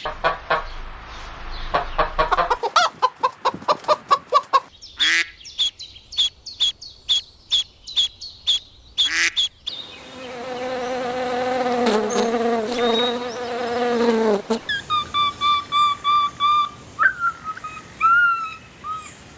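Animal calls in quick succession, most likely birds. First come fast buzzing trills, then a run of sharp, evenly spaced chirps, then a long held call that sags slightly in pitch, and near the end short repeated chirps.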